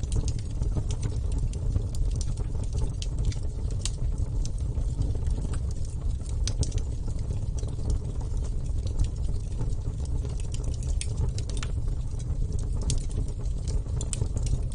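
Wood fire burning: a steady low rumble of the flames with irregular sharp crackles and pops from the burning wood.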